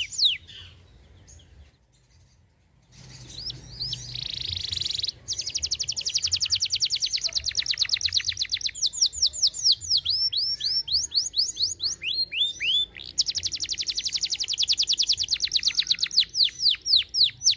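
Domestic canary singing: after a short pause, a long song of rapid, evenly repeated trills, a harsh buzzy phrase and slower down-slurred whistled notes.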